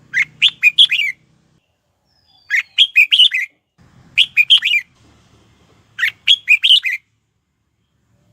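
Red-whiskered bulbul singing: four short phrases of quick, swooping whistled notes, each about a second long, with a pause of a second or so between them. It falls quiet near the end.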